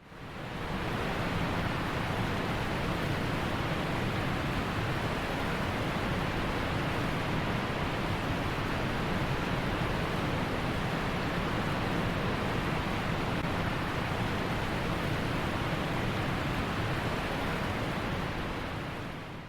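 Steady, even rushing noise with no swells or breaks, fading in at the start and out near the end.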